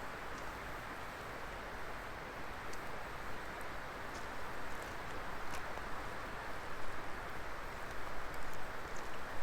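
Wood fire burning: a steady rushing hiss of flames with occasional small, sharp crackles, a little livelier in the second half.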